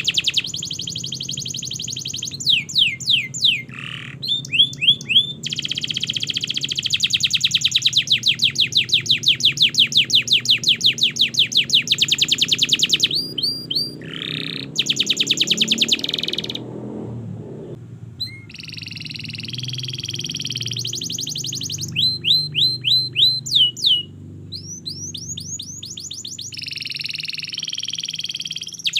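Domestic canary singing a long, varied song: fast repeated trills and rolls of quick rising notes, phrase after phrase with brief pauses between.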